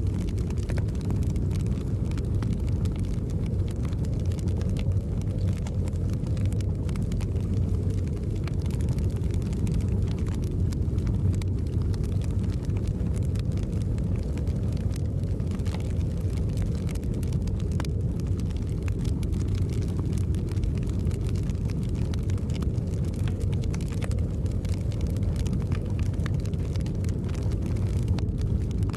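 Steady low rumble of snowstorm wind, with faint, scattered crackles of a wood fire in a fireplace.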